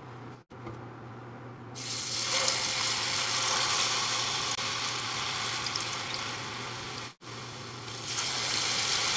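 Cubed plantain (banana da terra) pieces frying in a pan of oil: a faint hiss at first, then a loud, steady sizzle from about two seconds in as the pieces go into the oil, broken by two brief silent drop-outs.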